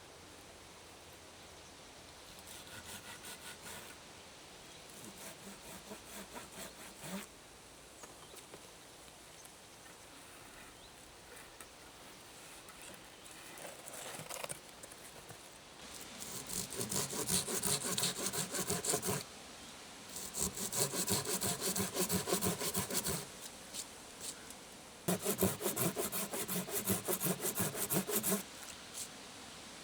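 Hand saw cutting wood in quick back-and-forth strokes: a few faint short bouts first, then three louder bouts of about three seconds each in the second half.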